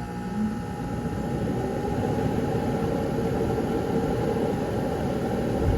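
Rheem Classic Series 3-ton central air conditioner's outdoor condensing unit starting up: the fan and compressor come on with a steady rushing noise that builds over the first couple of seconds, then holds steady.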